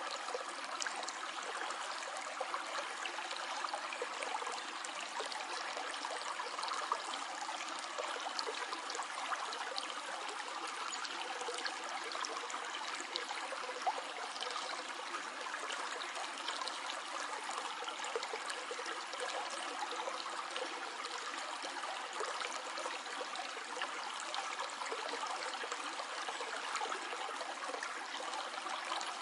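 Small stream flowing over stones, a steady trickling and babbling of water with many small splashes.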